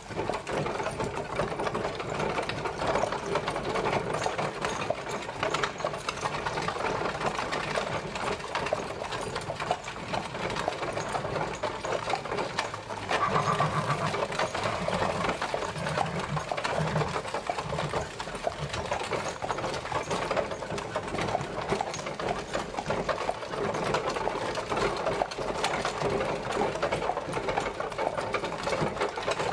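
Horse-drawn carriage travelling: a continuous, fast clatter and rattle of the carriage rolling along. It swells louder for a few seconds about halfway through.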